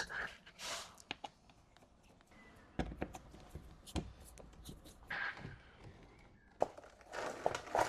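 Scattered light clicks and knocks with a few soft rustles, the handling noise of hands and tools working on parts under a car.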